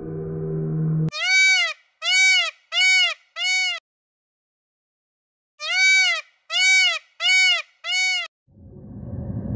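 Indian peafowl (peacock) calling: two series of four loud, nasal calls, each rising then falling in pitch, with a pause of about two seconds between the series.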